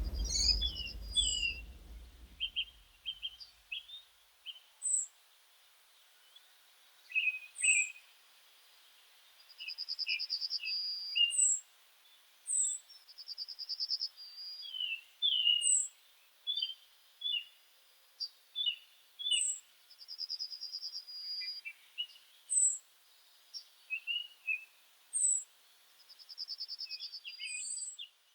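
Birds singing: a short trill repeated every few seconds among scattered high chirps and whistles. A low rumble fades out in the first couple of seconds.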